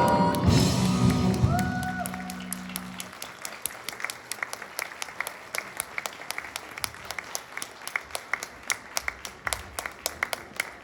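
The choir and accompaniment finish their last held chord, which fades out over the first two or three seconds. Then comes applause made of distinct, separate hand claps, several a second.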